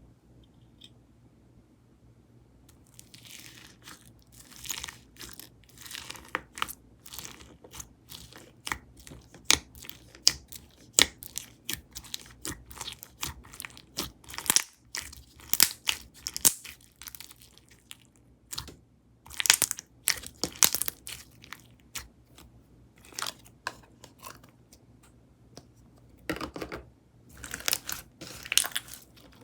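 Kokomo Slime's 'White Garlic Bacon Crumbles' slime being kneaded and pressed by hand, giving a dense run of crackling clicks and pops that starts about three seconds in.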